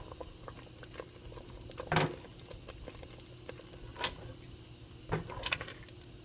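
A few scattered light knocks and clicks, about two seconds apart with a small cluster near the end, over a faint steady hum in a small room.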